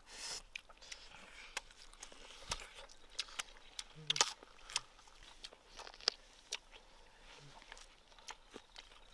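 Someone chewing a sweet and sour pork rib, with irregular crisp crunches as the rib cartilage is bitten through.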